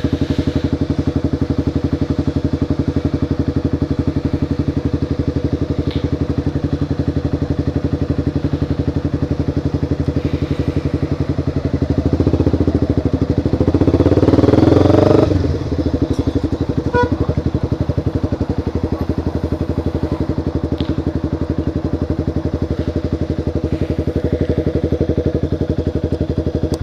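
Motorcycle engine idling steadily with an even pulse. About halfway through it swells louder for about three seconds, then settles back to idle. The sound cuts off suddenly at the very end.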